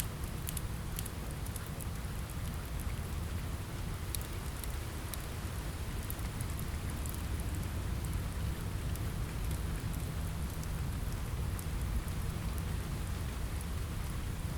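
Steady rain with a deep rumble underneath. Scattered sharp crackles come mostly in the first few seconds.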